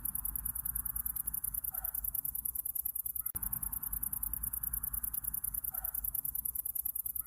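Summer-night insect chorus: a high, fast and even pulsing trill that never stops, over a faint low hum. A short, faint call sounds twice, about four seconds apart.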